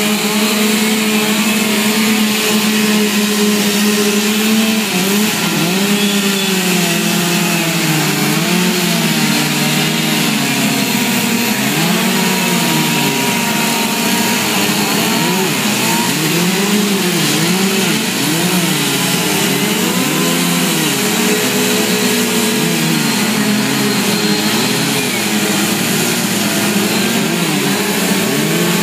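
Chainsaw carving wood: the saw runs at a steady pitch for the first few seconds, then is revved up and down over and over, about once a second.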